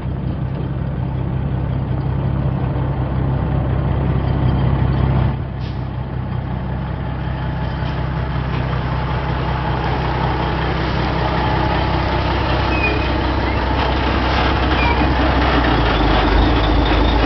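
Tanker truck's engine running steadily with a low, even hum. About five seconds in its note shifts and the level dips briefly, then it slowly grows louder toward the end.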